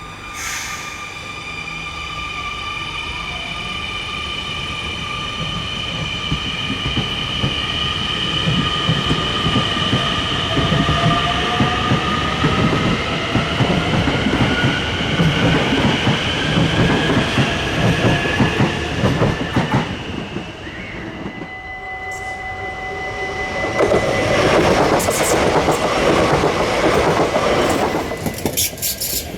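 NS Sprinter Nieuwe Generatie (CAF Civity) electric multiple unit running, with its electric traction whine rising slowly in pitch as it gathers speed, over wheel and rail rumble that grows louder. About two-thirds through, the sound changes to a steady high tone and then a loud rush of a train passing.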